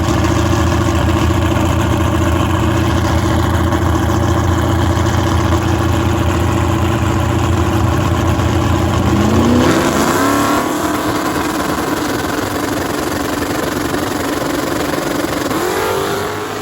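Drag race car engine running loud and steady, then revving in rising sweeps about ten seconds in, with another climb in pitch near the end as the sound fades.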